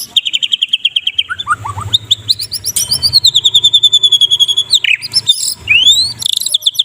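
White-rumped shama singing loud, fast rattling trills of rapidly repeated notes, broken by short falling notes and rising and falling whistled glides, with a faint low hum under the song.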